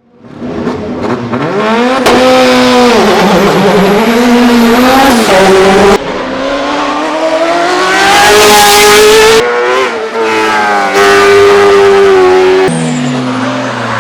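Hillclimb racing car engines at hard throttle, in a run of short clips cut one after another. The engine note climbs and drops through the gears, and there is a loud burst of hiss about two-thirds of the way through.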